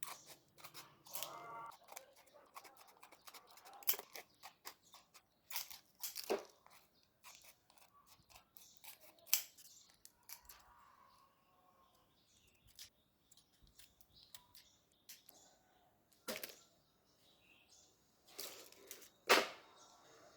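Irregular sharp clicks, snips and light knocks from hand craft work on small parts, with the loudest click near the end.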